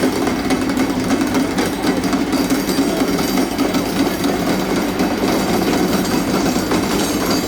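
Locomotive machinery running steadily close by, a continuous dense mechanical sound.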